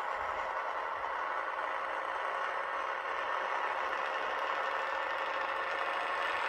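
N gauge model train running along the track: the steady whirr of its small electric motor with the clatter of its wheels on the rails, a little louder towards the end.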